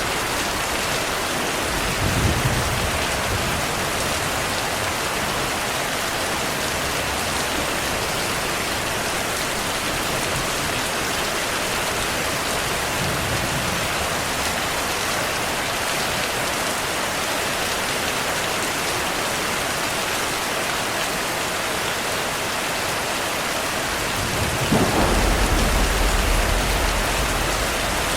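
Steady heavy rain with thunder: a brief low rumble about two seconds in, and a longer, louder rolling rumble near the end.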